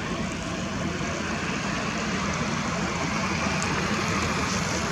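Steady outdoor background noise: an even hiss over a low rumble of distant road traffic.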